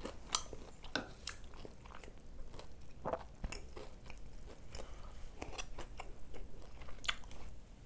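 Close-up mouth sounds of a person chewing a hash brown: irregular crunches and wet mouth clicks.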